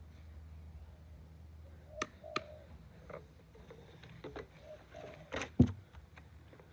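Handling noises from a string trimmer being readied to start: a couple of sharp clicks about two seconds in and a louder knock about five and a half seconds in, with birds cooing in the background.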